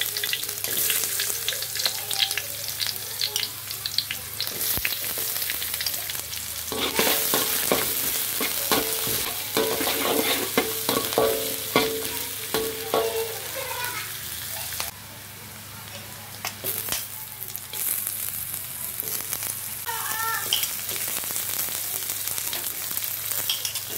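Chopped garlic and shallots sizzling in a little hot oil in a pan. They are stirred, with scraping and clicking against the pan.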